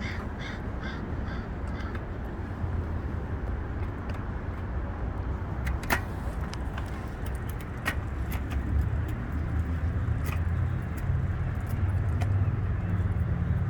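A crow cawing five or six times in quick succession near the start, over a steady low rumble, with a few sharp clicks later on.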